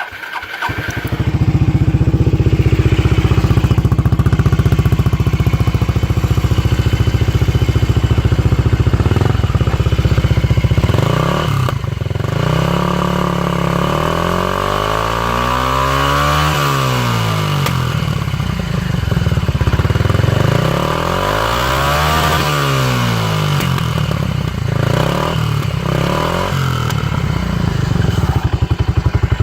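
Suzuki Skywave 250SS scooter's single-cylinder four-stroke engine catching just after the start and running at idle. In the middle it is revved up and let back down twice.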